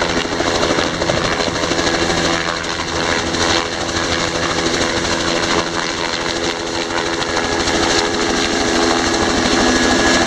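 Helicopter flying close by: a fast, steady rotor chop under steady engine tones, growing slightly louder near the end.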